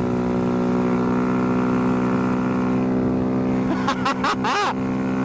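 Honda Grom's 125cc single-cylinder engine running at a steady pitch. About four seconds in come a few quick rising-and-falling sounds.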